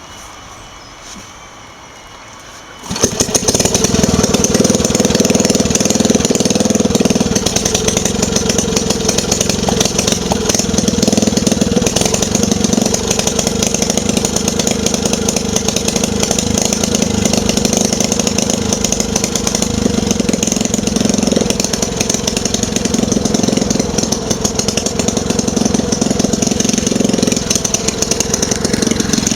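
An engine starts suddenly about three seconds in and then runs steadily at a fast, even beat.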